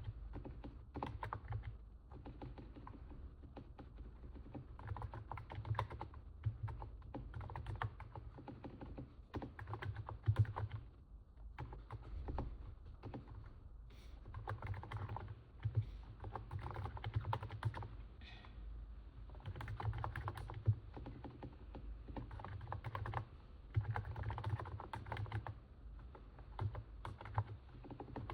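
Typing on a NIZ 68 Pro capacitive keyboard: runs of soft, quick keystrokes broken by short pauses, a sound likened to stepping on snow. A steady low hum lies underneath.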